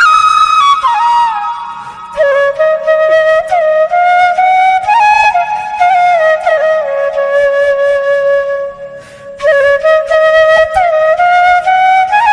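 Background music: a solo flute playing a slow melody of long held notes with small slides between them, dipping briefly about two seconds in and again near nine seconds.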